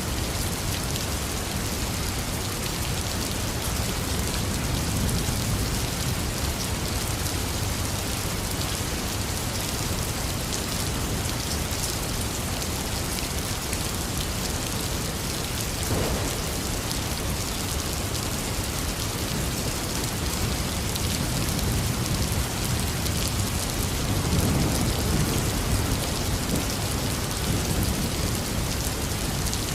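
Intense rain falling steadily, a dense even hiss of drops on surfaces. Low thunder rumbles swell in faintly early on and more strongly near the end, and a single short knock sounds about halfway through.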